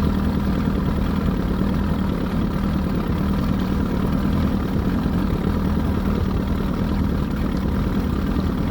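Evinrude 88 SPL V4 two-stroke outboard idling steadily, with no tick or squeak to be heard. Its head gaskets have been freshly replaced and its head bolts torqued to spec.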